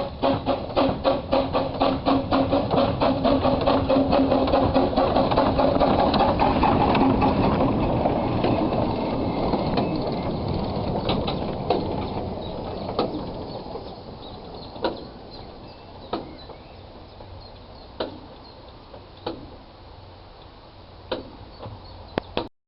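A small 15-inch gauge steam train passing: a quick run of regular beats, about four a second, gives way to the rumble of the train, which fades away leaving single clicks of wheels on rail joints every second or two. The sound cuts off suddenly at the end.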